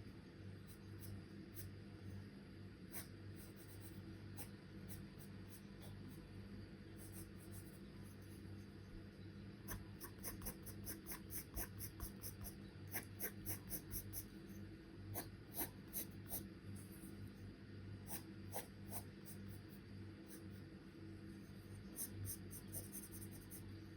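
Charcoal pencil strokes scratching on paper, in quick short strokes that come thicker near the middle and again near the end, over a low steady hum.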